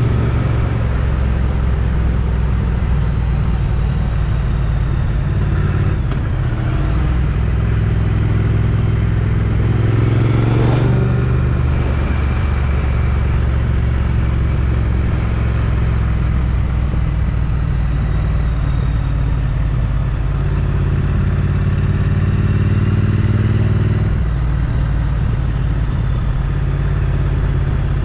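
Triumph Street Twin's 900 cc parallel-twin engine through its stock exhaust, ridden on the road, its note shifting with throttle and gears several times. A brief sweeping sound comes about eleven seconds in.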